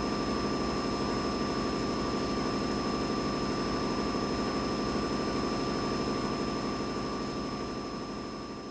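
Boiler room machinery running: a steady low rumble and hum with two thin, steady high whines on top. It fades out gradually over the last few seconds.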